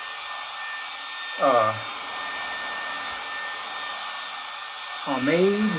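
Remington HC6550 cordless vacuum hair clippers running, their motor and built-in vacuum fan giving a steady whir with a thin high hum. A short voice sound cuts in about a second and a half in, and again near the end.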